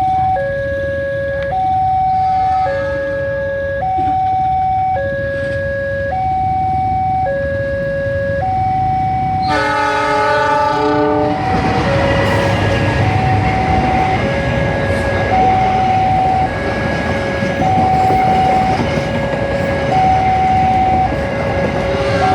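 Railway level-crossing warning alarm sounding a two-tone signal, alternating low and high about once a second. About ten seconds in a train horn blows for a couple of seconds, then the train passes over the crossing with loud rumbling wheel noise while the alarm keeps sounding.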